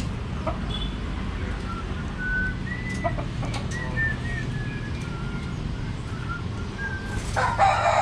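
Pet budgerigars chirping: short thin chirps scattered through, over a steady low hum, with a louder, noisier burst near the end.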